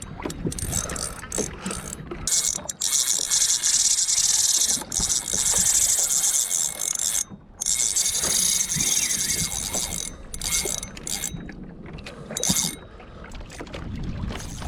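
Fishing reel's drag clicking fast as a hooked fish, which the angler thinks may be a shark, pulls line off. It comes in runs of a few seconds with short breaks.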